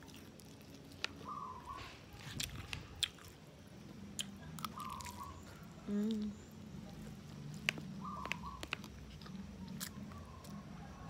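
Close-up mouth sounds of a person eating rice and fish: chewing and biting with some crunches, and sharp clicks of a metal spoon on the plate. A short hummed "mm" comes about six seconds in.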